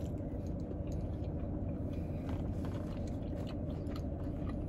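A person biting into and chewing a roast beef sandwich close to the microphone, with many small mouth clicks, over a steady low hum.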